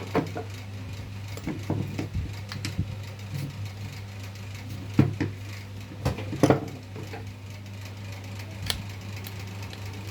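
Irregular metal clinks and knocks of table fan parts and tools being handled, over a steady low hum.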